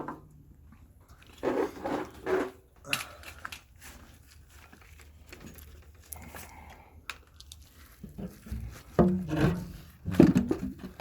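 Scattered clicks, knocks and rustles of a heavy truck starter motor and tools being handled, with a sharp click at the start. Brief grunts or muttered voice are heard twice.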